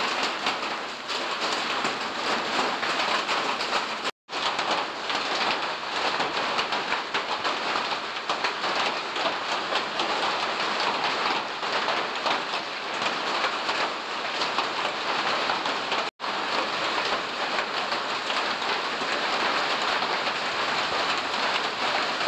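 Hail falling hard: a dense, steady clatter of hailstones striking. It cuts out for an instant twice.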